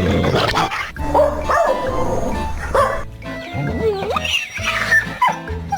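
Music with a dog barking over it.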